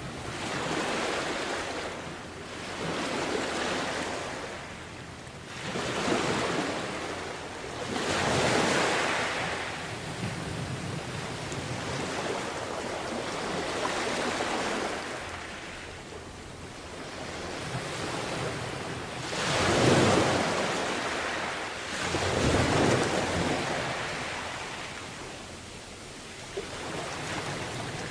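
Sea waves breaking and washing up the beach, swelling and fading every few seconds, with a couple of bigger waves about two-thirds of the way through. Wind rumbles on the microphone at times.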